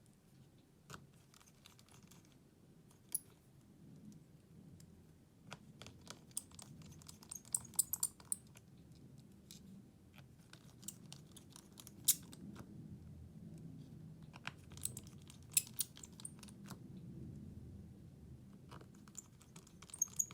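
Scattered light clicks and taps of small hand tools against the plastic and metal parts of a Xiaomi Redmi 10 5G phone being taken apart, coming in short clusters over a faint low hum.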